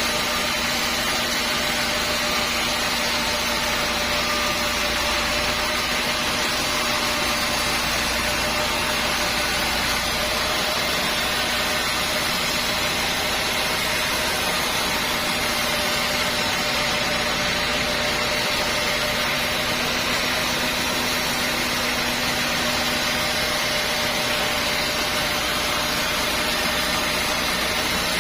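Sawmill machinery running steadily: an even mechanical noise with a constant hum that does not change.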